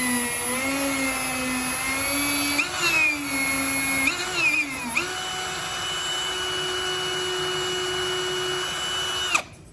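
Power drill motor running while drilling into the oil pan of a small-block Chevy 350. Its pitch wavers and dips as the bit loads up, then holds a steady, slightly higher pitch from about five seconds in, and it stops just before the end.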